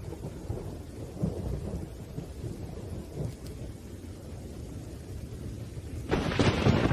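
Thunderstorm: low thunder rumbling over steady rain, then a louder, sharper peal of thunder breaking about six seconds in.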